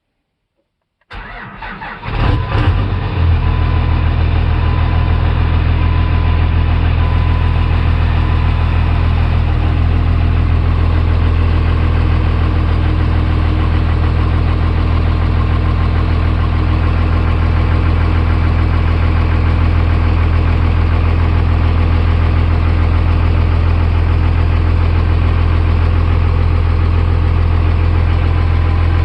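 Cummins diesel engine cold-starting at 21°F: about a second of cranking, then it catches quickly and settles into a steady idle. It starts strong despite the cold.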